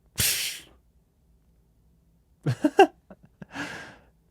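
A man's breathing: a sharp breath out at the start, a brief low voiced murmur a little past halfway, then another breath near the end.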